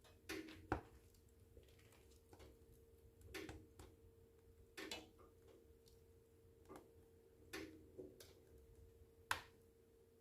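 Wood fire crackling in a fireplace: irregular sharp pops and snaps from the burning logs, two of them louder, over a faint steady hum.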